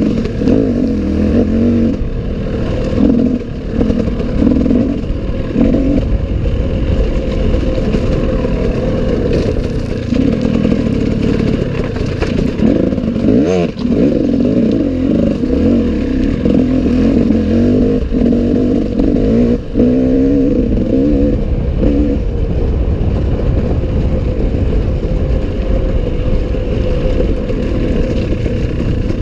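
Enduro motorcycle engine running under load, its pitch rising and falling as the throttle is worked, with a few sharp knocks along the way.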